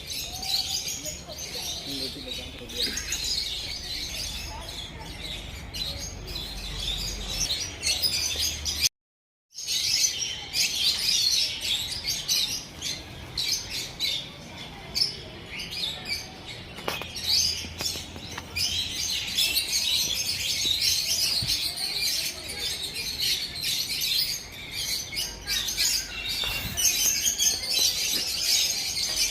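A dense chorus of many birds chirping and calling at once. It cuts out for about half a second around nine seconds in.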